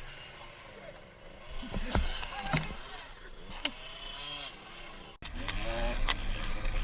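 Dirt bike engines revving unevenly on a trail, with a few sharp knocks. About five seconds in, the sound cuts to a louder, closer bike engine running steadily.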